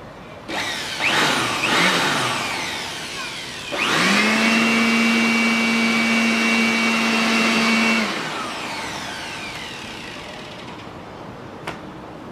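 Small handheld electric air blower/vacuum motor. It gives a short burst about half a second in and winds down, then starts again near 4 s. It spins up quickly to a steady high whine with a rushing of air for about four seconds, then is switched off and spins down slowly.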